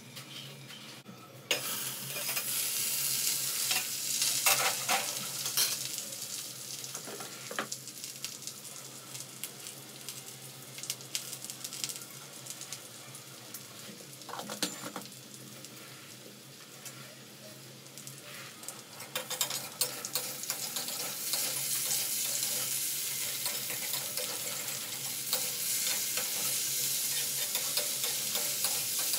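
Sliced potatoes frying in oil in a kadai, a steady sizzle with scattered sharp clinks of metal utensils. The sizzle is quiet for the first second or so, then grows louder, and grows again about twenty seconds in as a spatula stirs and scrapes through the potatoes.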